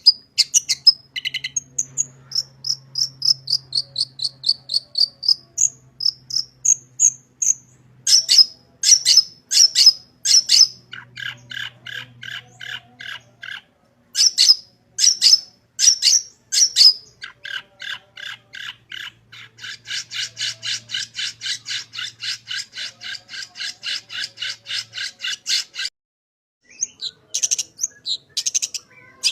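Long-tailed shrike (cendet) singing a varied song packed with mimicry: whistled glides, sharp repeated notes and long, rapid chattering runs, with a short break near the end.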